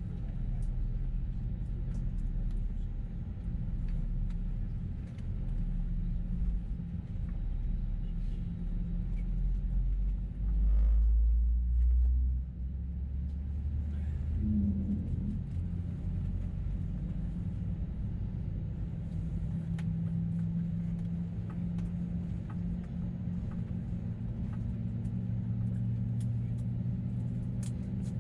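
Airbus A321neo engines running, heard from a window seat over the wing as a steady low rumble with a few humming engine tones. Near the middle, a much louder low rumble swells twice over about two seconds. Later the engine tones shift and grow stronger.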